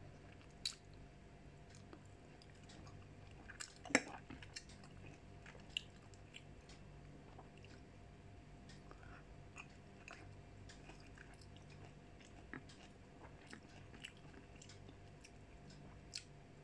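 Mouth sounds of a person biting and chewing soft mango pieces, with scattered small clicks and smacks, the loudest about four seconds in, over a faint steady hum.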